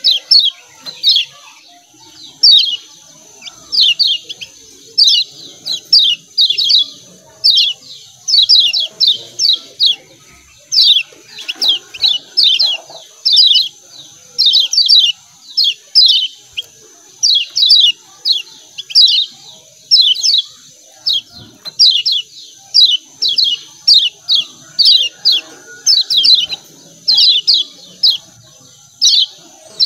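Kecial kuning (Lombok white-eye) giving its rapid 'ciak ciak' chirp calls: short, downward-sweeping chirps in quick clusters of two to four, repeating about once a second without a break. A steady faint high-pitched hiss runs underneath.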